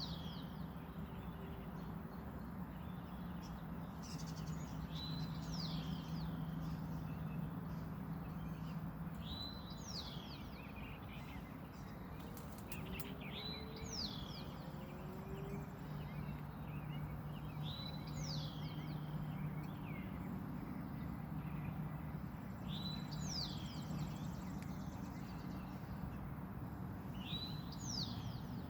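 A songbird repeats the same short high phrase every few seconds: a brief note, then a quick whistle that falls sharply in pitch. Under it runs a steady low hum.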